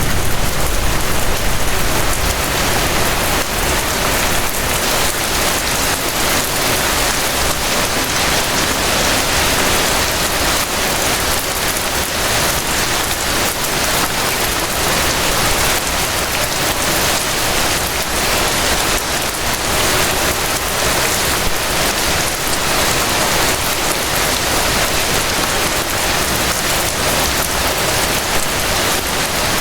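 Steady rain falling on surfaces, an even dense hiss of many drops with no let-up.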